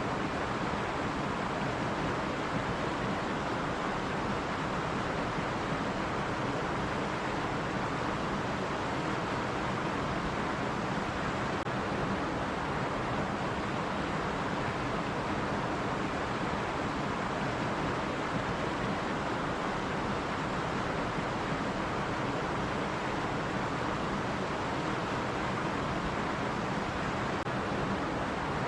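Stream water running over rocks, a steady even rush with no breaks.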